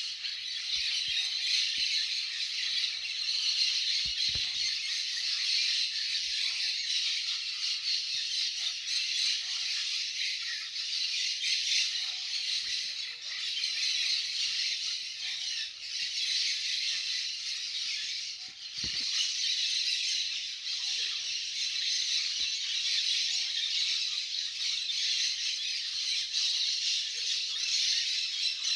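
A large flock of parrots calling all at once, a dense, unbroken chorus of squawks.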